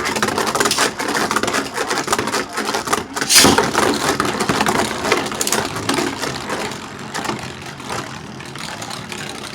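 Two Beyblade Burst Turbo tops, Guardian Kerbeaus and Blizzard Gainon, spinning in a plastic Beyblade stadium: a continuous rattling scrape of tips on the plastic floor with many small clicks, one sharp clack about three and a half seconds in, slowly getting quieter toward the end.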